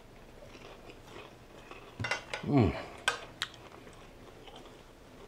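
A man chewing a crunchy bite of chicken fried steak, with a short falling "mmm" of enjoyment about two and a half seconds in. Two sharp clicks follow a moment later.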